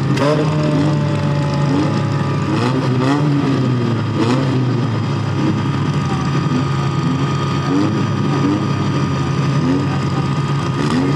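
Demolition derby cars' engines running and revving together, with a few sharp crashes of cars hitting each other: one right at the start, two around three and four seconds in, and one near the end.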